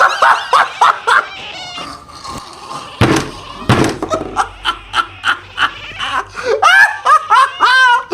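A person laughing hard in a run of short repeated bursts, rising into high-pitched squeals of laughter near the end.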